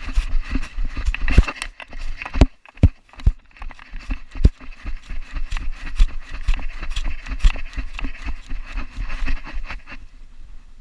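A Belgian Malinois running with a camera strapped to its body: quick, irregular thumps and knocks of footfalls and the jostled mount, which stop near the end.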